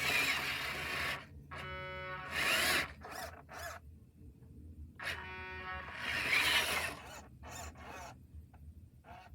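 A radio-controlled dirt-hauling truck working in two short rounds. Each round has scraping, rustling noise and a brief steady whine from its small electric motor, and a few short ticks follow.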